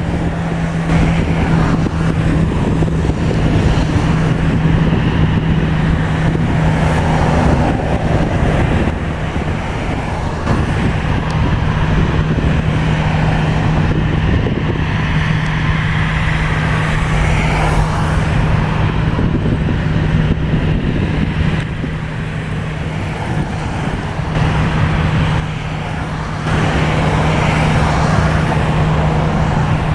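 Steady engine noise with a constant low hum, easing off slightly twice in the second half.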